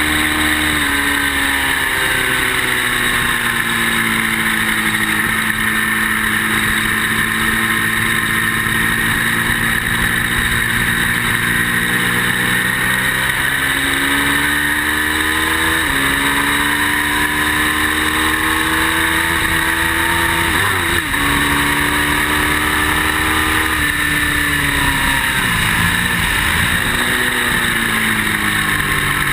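Ducati V-twin motorcycle engine pulling hard through the gears, with heavy wind rush over it. The engine pitch climbs, drops sharply twice at upshifts, then falls and wavers near the end as the bike slows.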